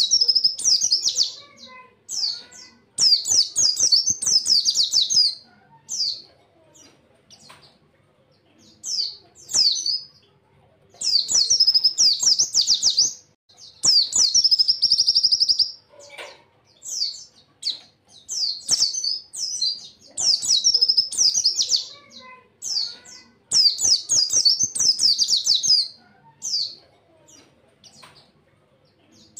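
Pleci (white-eye, Zosterops) singing its rapid-fire 'tembakan' song: fast, high-pitched twittering phrases of a second or two each, broken by short pauses and repeated again and again.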